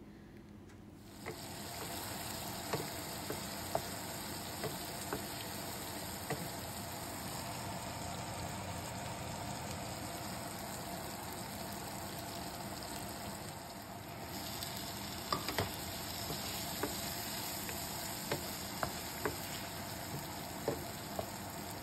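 Sliced onions frying in hot oil in a non-stick pan: a steady sizzle that starts about a second in and grows brighter about two-thirds of the way through. A wooden spatula stirring against the pan makes occasional light clicks.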